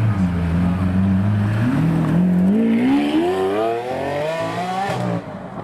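Supercar engine running at a low steady note, then accelerating hard, its pitch rising steadily for about three seconds before the note cuts off abruptly near the end.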